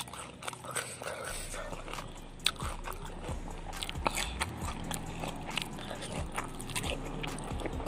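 Close-up eating sounds: a piece of lontong (pressed rice cake) dipped in chilli sambal is bitten and chewed, with many short wet mouth clicks and smacks.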